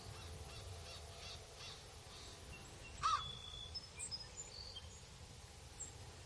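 Wild birds calling: a faint run of short repeated high notes, about two or three a second, then one louder call about three seconds in that ends in a brief held whistle, followed by scattered short high chirps.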